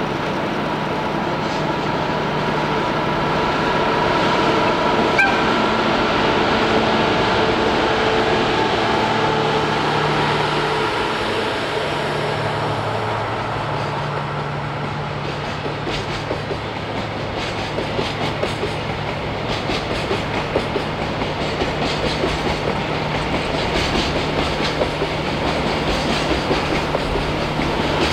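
Diesel train running past with a steady engine drone; from about halfway through, a rhythmic clatter of wheels over rail joints joins in and grows.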